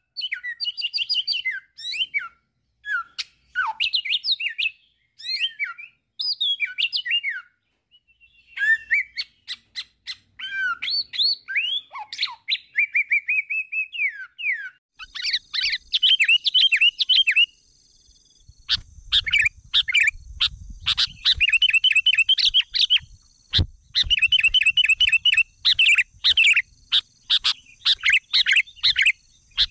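Songbirds chirping and whistling in a lively, varied series of short calls and trills. About halfway through, a steady high-pitched whine joins, with some low rumble underneath.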